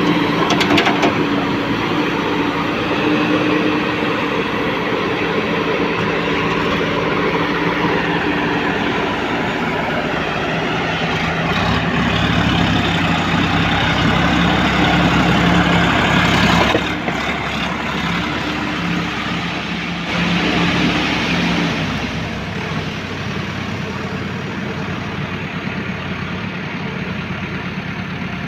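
Diesel engine of a JCB 3DX backhoe loader running while it works. It labours harder from about twelve seconds in, drops off suddenly near seventeen seconds, and rises briefly again around twenty seconds.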